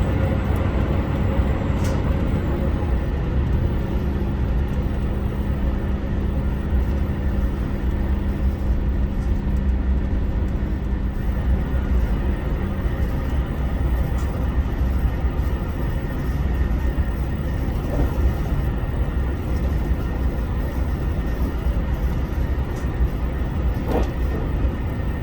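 HOT7000 series diesel railcar running at speed, heard on board: a steady deep engine drone and wheel-on-rail rumble, with a steady hum that fades about halfway through and a couple of faint clicks.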